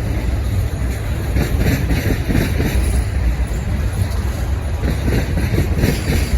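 Freight cars of a passing manifest train rolling by at close range: a steady heavy rumble of wheels on rail, with irregular clattering as wheels cross the track.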